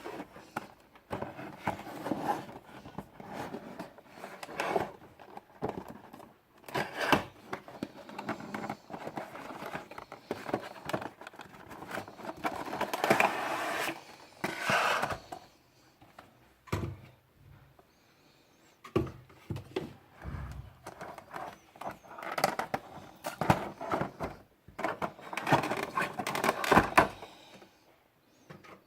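A model airplane's box and packaging being opened and handled by hand: irregular rustling and scraping in bursts, with scattered clicks and knocks and short pauses between.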